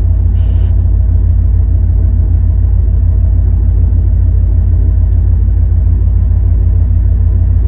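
Steady, heavy low rumble of a 1997 Ford F350 dump truck's 460 V8 running, heard from inside the cab.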